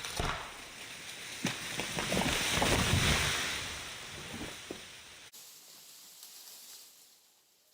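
A dead tree falling: a rushing swell of limbs through the air with cracking and snapping of branches, loudest about three seconds in, then dying away.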